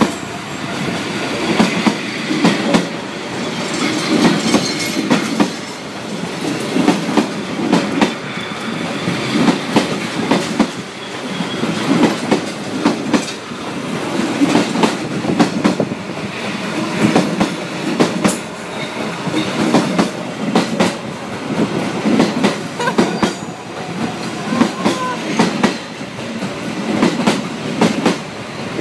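Passenger train coaches rolling past at very close range, a steady rumble with the wheels clacking over the rail joints in repeated clusters as car after car goes by.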